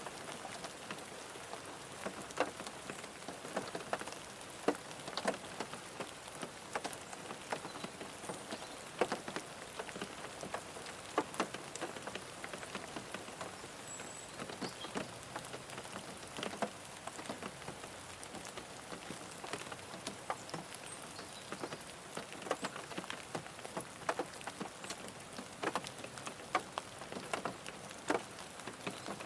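Rain falling on a car, a steady patter with many separate drops striking hard and irregularly.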